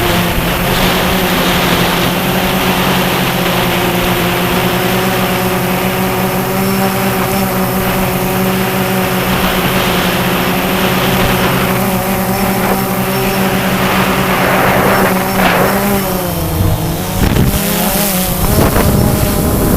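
DJI Phantom 2 quadcopter's motors and propellers whirring at a steady pitch, then wavering up and down in the last few seconds as the motors change speed.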